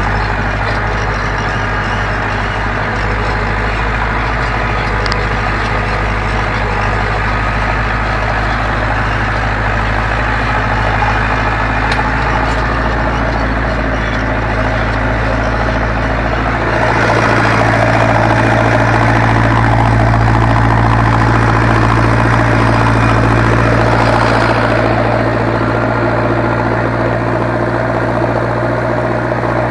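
Zetor 7245 tractor's four-cylinder diesel engine running steadily under ploughing load. It grows louder for about eight seconds past the middle, then settles back.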